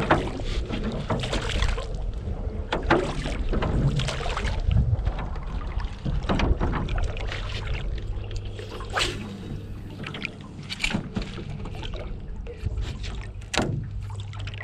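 Rowboat being worked by hand on the water: irregular knocks and splashes, about one every one to three seconds, as from oars clunking in their oarlocks and dipping into the water. Wind rumbles on the microphone throughout.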